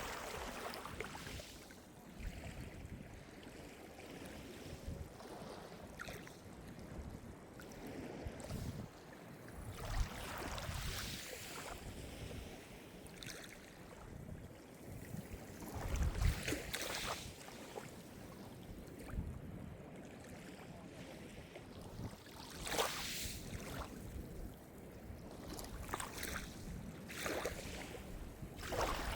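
Calm Mediterranean surf: small waves breaking and washing up the shore every few seconds over a steady hiss of moving water.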